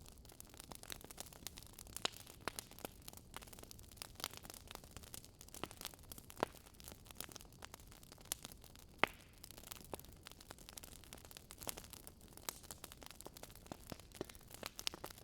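Wood fire crackling: irregular sharp pops and snaps over a soft hiss, the loudest pop about nine seconds in.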